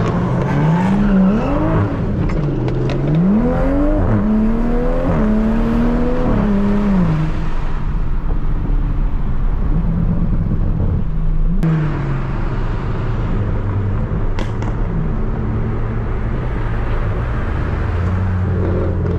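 Tuned Toyota Supra MK5's turbocharged B58 straight-six accelerating. Its pitch climbs and drops back a few times as it goes up through the gears, then it settles into a steady cruising drone with a brief downward glide about halfway through.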